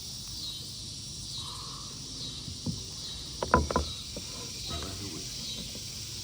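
Evening insect chorus buzzing in a steady pulsing rhythm, with a short cluster of sharp knocks on the kayak a little past halfway.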